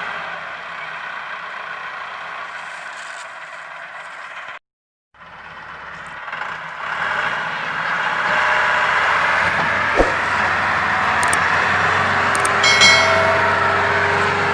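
Massey Ferguson 385 tractor diesel engines running steadily under load, pulling a heavy trolley. The sound cuts out for half a second about a third of the way in, then comes back and grows louder, with a sharp click about two-thirds through and a short high tone near the end.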